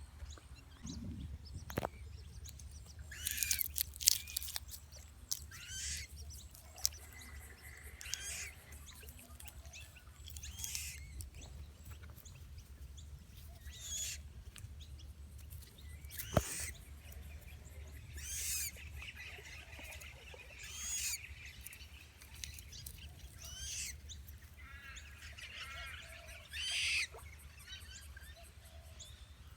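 Short, high-pitched bird calls repeated every two to three seconds, over a low steady rumble.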